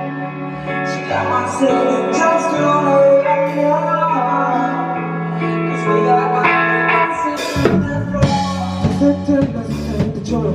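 Live band playing a song's instrumental intro: held chords ring for most of it, then the drum kit comes in with kick and snare hits about three-quarters of the way through.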